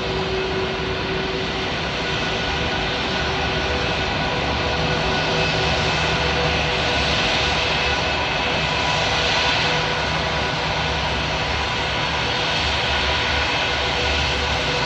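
Airbus A320-232's IAE V2500 jet engines running: a steady loud roar with several steady whining tones, swelling a little in the middle.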